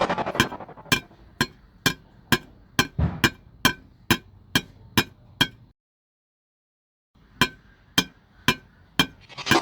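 Railroad crossing warning bell striking steadily, about two ringing strikes a second. The sound cuts out completely for about a second and a half past the middle, then the strikes resume. A loud rushing noise fades out over the first second.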